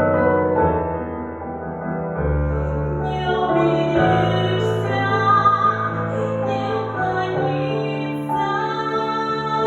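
A woman singing an aria in a classical style, a high voice entering about three seconds in, with piano accompaniment.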